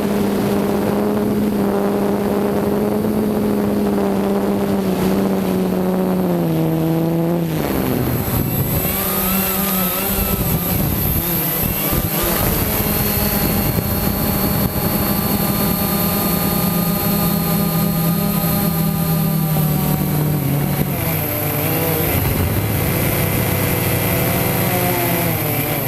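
Quanum Nova quadcopter's motors and propellers buzzing in flight, a pitched drone whose tone drops about seven seconds in and then rises and falls with the throttle, over a steady high whine.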